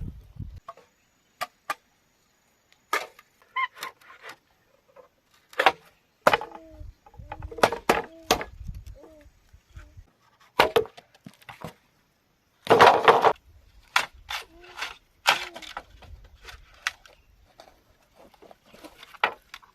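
Bamboo being chopped and split by hand: irregular sharp knocks and cracks, with a longer, denser crackling burst about two-thirds of the way through.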